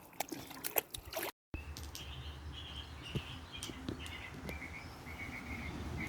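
A few sharp clicks, then after a brief dropout small birds chirping repeatedly over a steady low rumble.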